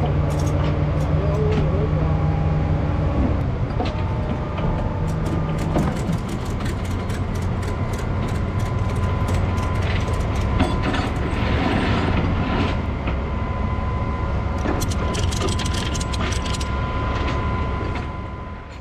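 Heavy truck engine running steadily, with repeated metallic clicks and clanks over it; the sound fades out at the very end.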